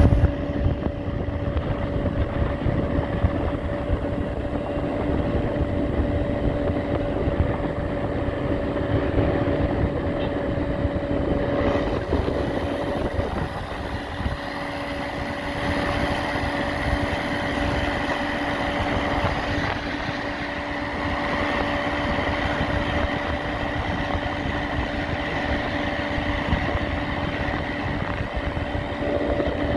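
Electric bike's mid-drive motor running with a steady whine over a rushing noise. The whine's tone changes about twelve seconds in, with a higher note taking over, and the lower note comes back near the end.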